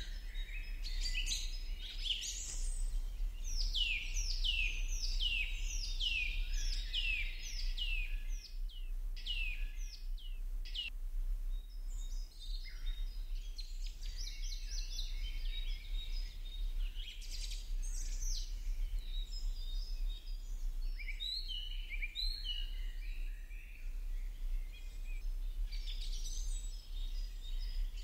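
Birds chirping: a run of repeated high notes sweeping downward, about two a second, for the first ten seconds or so, then scattered shorter chirps. A steady low electrical hum runs underneath.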